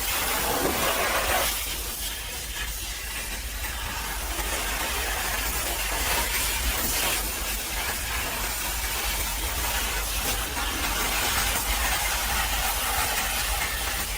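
Pressure washer spraying water onto a truck: a steady hiss of spray that swells and eases a little, over a low hum.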